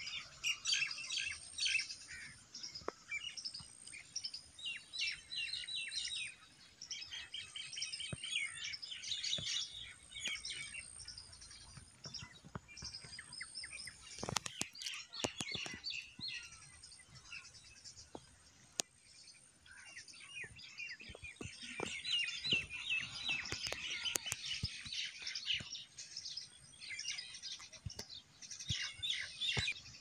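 Several small birds chirping and twittering in quick, overlapping bursts, with a couple of sharp clicks about halfway through.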